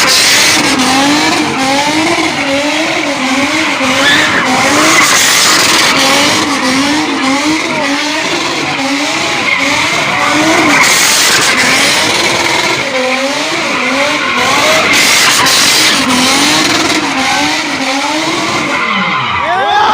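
Car tyres squealing in a long, continuous skid whose pitch wavers steadily up and down, as when a car is spun in circles or drifted.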